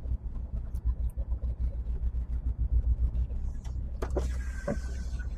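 Lorry's diesel engine running with a steady, pulsing low rumble, heard from inside the cab, with a few knocks about four seconds in.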